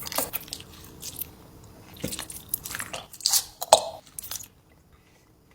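Close-up mouth sounds of a person eating: a string of wet, clicky bites and chewing that stop about a second before the end.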